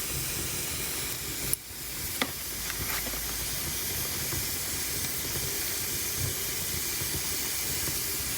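Wood fire burning in a fireplace, hissing steadily, with a couple of sharp pops about two seconds in.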